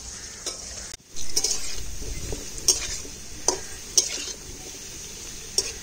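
Potatoes frying in hot oil in a kadai, sizzling steadily, while a utensil stirs them and knocks against the pan several times. The sizzle drops out briefly about a second in and comes back louder.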